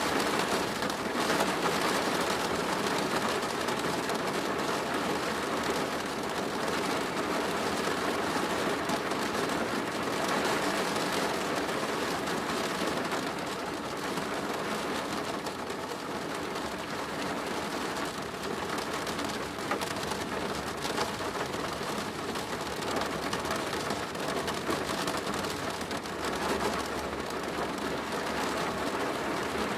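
Steady rain drumming on a plastic roof, a dense, even patter of drops.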